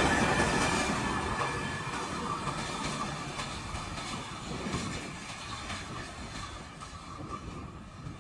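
Tail end of a long freight train passing and moving away: wagon wheels rumbling and clacking over the rail joints, fading steadily as the brake van recedes.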